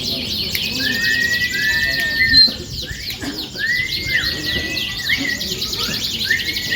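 Many canaries singing at once in a dense, overlapping chorus of fast chirping trills and arched whistled notes.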